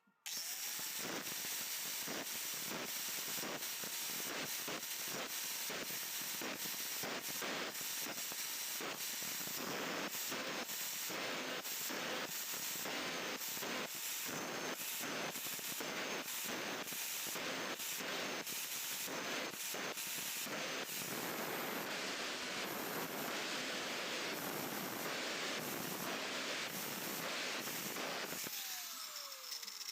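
A small electric power tool switches on and works metal with a steady hiss broken by quick regular dips. Near the end it is switched off and winds down in falling pitch.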